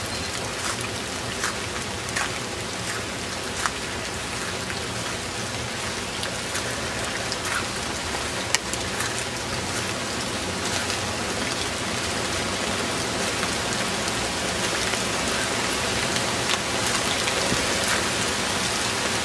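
Steady rain falling on leaves and grass, with scattered sharper drops landing close by. The hiss grows a little louder in the second half.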